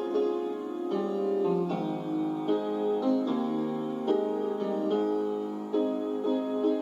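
Background music: a gentle piano piece, notes and chords played at an even pace.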